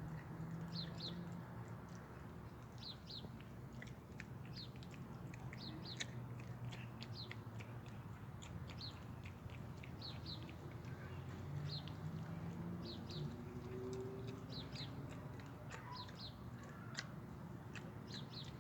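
A small bird chirping over and over in short, high notes, often in quick pairs about once a second, over a low steady hum.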